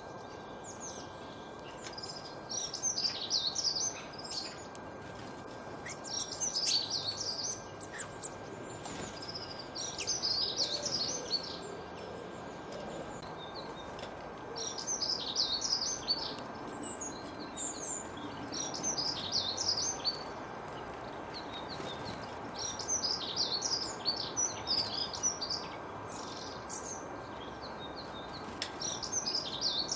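A songbird singing a short, quick warbling phrase of about a second or two, repeated every three to four seconds, over a steady background hiss of outdoor ambience.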